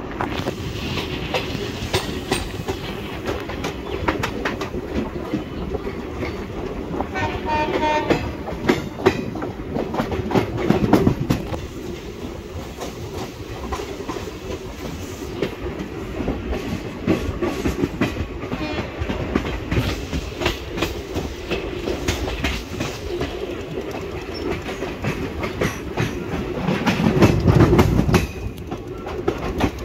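Indian Railways express passenger coaches running at speed, heard from the open coach door: steady rumble and wind rush with the clickety-clack of wheels over rail joints. A short horn sounds about seven seconds in, and the rumble swells louder around eleven and again around twenty-seven seconds in.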